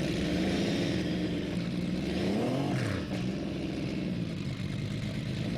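Turbocharged Porsche flat-12 race engine running under power. Its pitch rises once, about two seconds in, then drops back.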